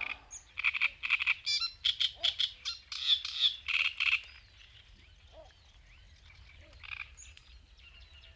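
A frog calling in a quick run of short croaks for about four seconds, then stopping. Faint bird chirps follow, with one more croak near the end.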